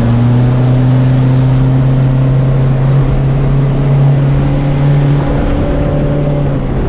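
Motorboat engine running under way, a loud steady drone with rushing wind and water behind it; the engine note dips slightly about five seconds in.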